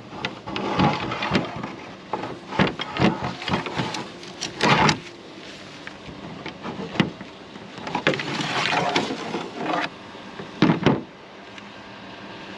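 Irregular knocks, clatters and scraping of junk being picked up and moved about while sorting through a curbside pile for scrap metal, with a longer rustling scrape about two-thirds of the way in and a loud knock near the end.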